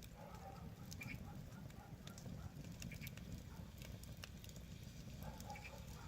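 Wood fire crackling: sharp pops and snaps at irregular intervals over a low, steady rumble of burning.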